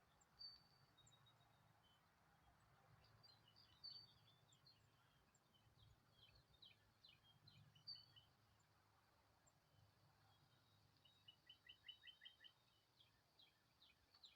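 Faint, scattered chirps of small songbirds over a low steady hum of background noise. A little before the end, one bird gives a quick run of about eight short notes.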